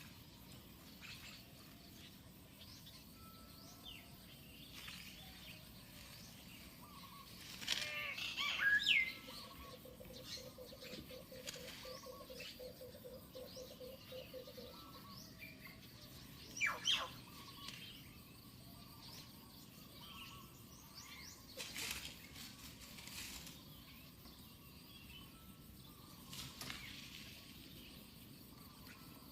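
Birds calling: scattered short chirps, with a louder burst of quick rising calls about eight seconds in and another about seventeen seconds in.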